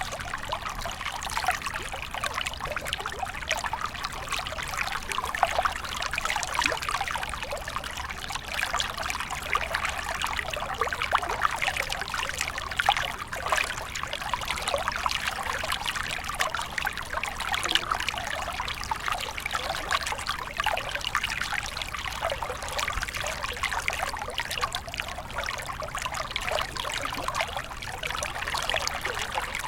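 Small stream flowing steadily, with a continuous trickling, babbling water sound.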